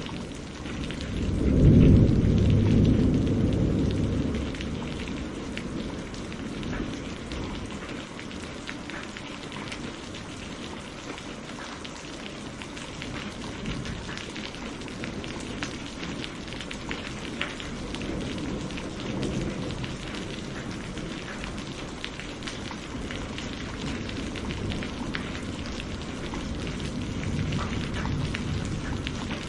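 Steady rain with a loud rumble of thunder that swells about two seconds in and dies away over a couple of seconds, and fainter rolls of thunder later on.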